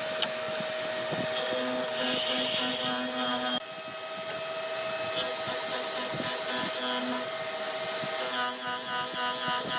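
A power tool's motor runs steadily while working wood. The sound changes abruptly about three and a half seconds in.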